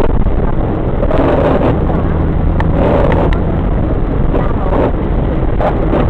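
Road and engine noise heard inside a moving car driving through a heavy thunderstorm: a steady low rumble with a broad rushing hiss and scattered sharp ticks.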